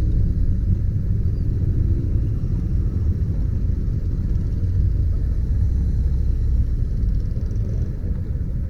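Steady low rumble of a motorcycle ride: wind buffeting the microphone over the running engine.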